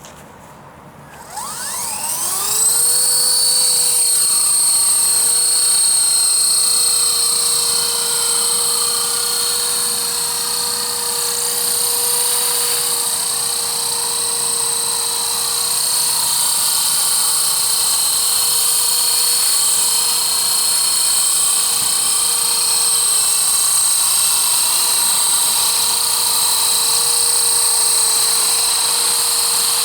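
E-flite Blade CP Pro electric RC helicopter spooling up: a rising whine starts about a second in and settles within a couple of seconds into a steady high whine of motor, gears and rotor, its pitch wavering slightly as it flies.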